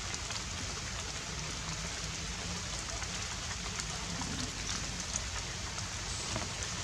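Light rain falling steadily on foliage: an even hiss with scattered small drop ticks.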